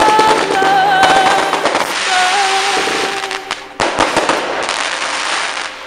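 Fireworks going off: dense, rapid crackling over a steady hiss, with wavering whistle-like tones in the first half and a few sharper bangs midway.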